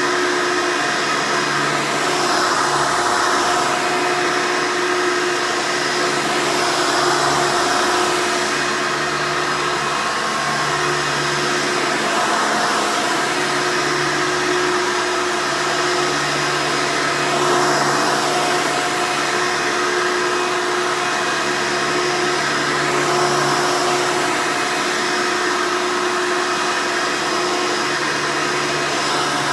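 Hoover Elite upright vacuum cleaner running loudly and continuously, a steady motor whine with rushing air that swells and eases a little every few seconds.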